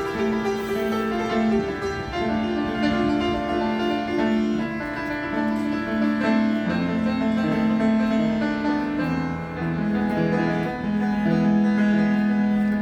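A public street piano being played, with notes held and overlapping into chords.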